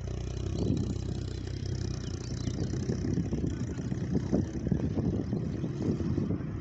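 A car engine idling with a steady low tone, with an uneven low rumble over it from about two seconds in.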